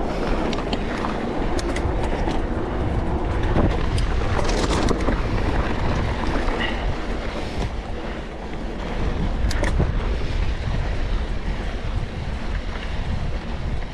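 Wind buffeting the microphone over the rumble and rattle of a mountain e-bike rolling fast down a rough dirt trail, with scattered sharp knocks as it goes over bumps.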